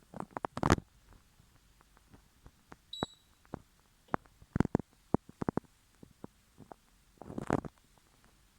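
Dishwasher being handled: a string of clicks, clunks and rattles, with clusters near the start, the middle and the end, and one short high electronic beep about three seconds in.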